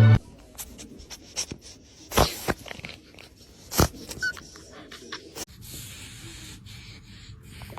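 A dog giving a few short, sharp barks, the loudest about two and four seconds in, among smaller clicks and knocks.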